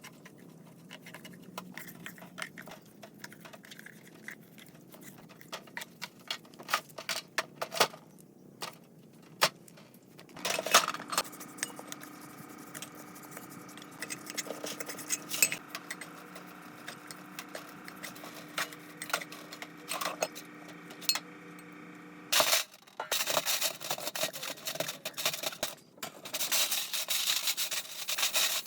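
Small metal parts clinking and knocking as they are handled, in many short irregular hits. A faint steady hum runs under the middle part, and a louder rasping noise takes over for the last several seconds.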